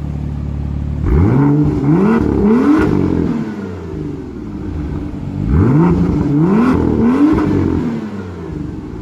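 2017 BMW M2's 3.0-litre turbocharged inline-six idling, then revved in two bursts, about a second in and again about five and a half seconds in. Each burst is a quick run of about three rising blips before the revs fall back to idle.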